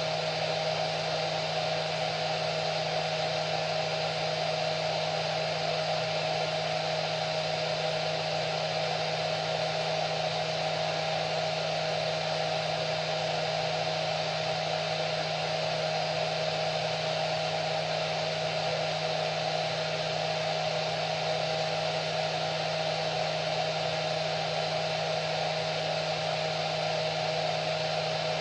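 Hair dryer running continuously at a steady setting: an even rush of blown air with a constant motor whine.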